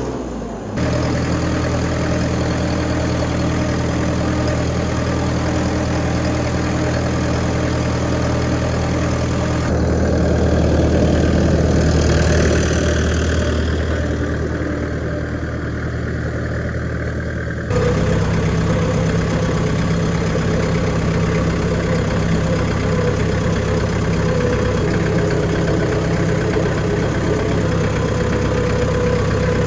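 McCormick International B-375 tractor's diesel engine running steadily at idle. Its note shifts abruptly about ten seconds in and again near eighteen seconds.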